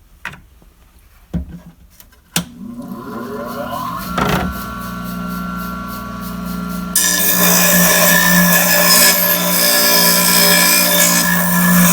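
A few clicks, then the flat-surface glass grinder's motor starts and spins up to a steady hum. About seven seconds in, a loud gritty hiss begins as a piece of stained glass is pressed against the wet spinning lap and its edge is ground flat.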